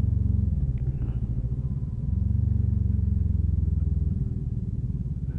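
Motorcycle engine running at low, steady revs with even firing pulses. The throttle eases off about half a second in, opens again around two seconds, and closes again near the end.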